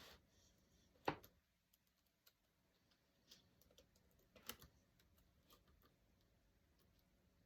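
A few short, sharp clicks and taps from journaling materials being handled on a desk, the loudest about a second in and another about four and a half seconds in, with fainter ticks between, over near silence.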